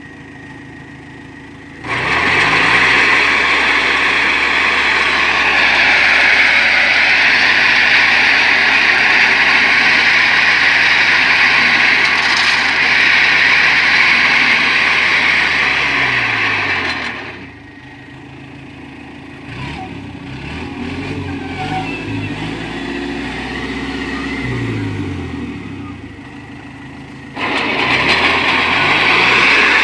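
Kubota tractor's diesel engine running and revving. It gets suddenly much louder and noisier about two seconds in, as if working hard. It drops back near the middle to a quieter run with its pitch rising and falling, then turns loud again near the end.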